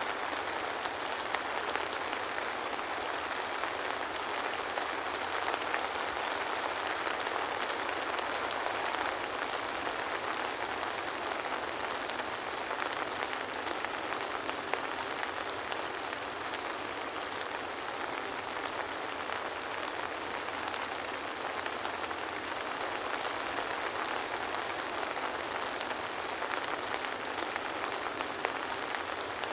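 Steady soft rain falling: an even hiss full of small drop taps that stays level throughout.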